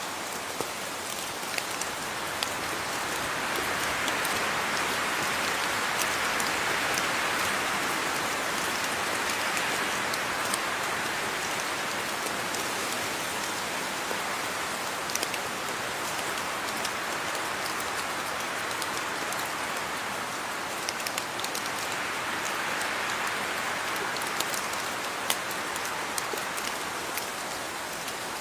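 Steady rain falling, with many individual drops ticking sharply on a surface. The rain swells gently a few seconds in and again near the end.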